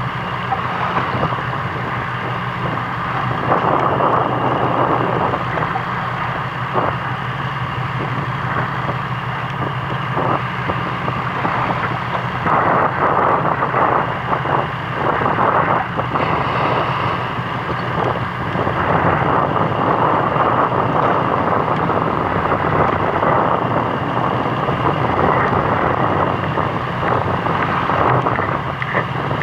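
Fishing boat's engine running with a steady low hum, under gusty wind noise on the microphone.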